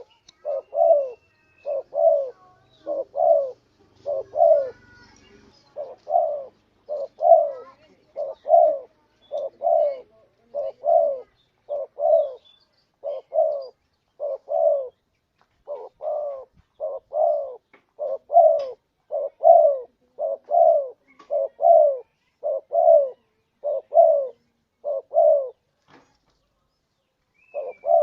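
Spotted dove (tekukur) cooing over and over, a string of short, low, falling coos in quick groups of two and three. The run breaks off briefly near the end and starts again. It is the call used as a lure for wild doves.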